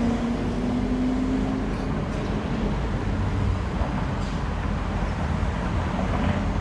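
Vehicle engines and road traffic making a steady low rumble, with an engine hum that fades out about two seconds in.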